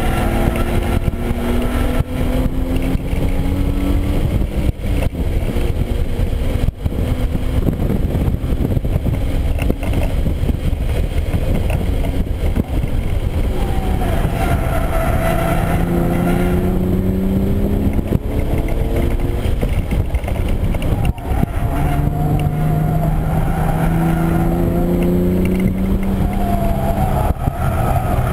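Hyundai Genesis Coupe 3.8 R-Spec's V6 engine heard from inside the cabin at track speed. Its pitch climbs under acceleration several times and drops back in between, over a constant heavy low rumble.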